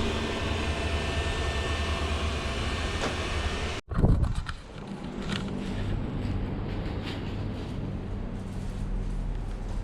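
Xiaomi Mijia robot vacuum cleaner running, a steady hum of its suction fan and brushes. About four seconds in the sound cuts off abruptly and a loud low thump follows, then a lower, steadier hum with a few light clicks.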